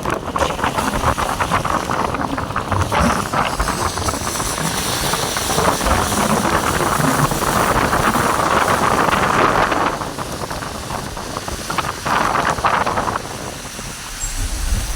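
Heavy rain pouring, a loud, steady rush of water with dense patter that dips briefly near the end.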